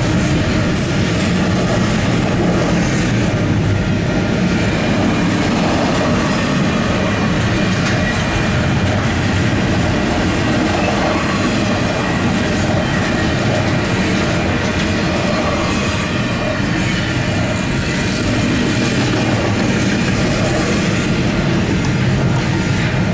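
Double-stack container train's well cars rolling past, a steady loud rumble of steel wheels on the rails, heard from inside a car.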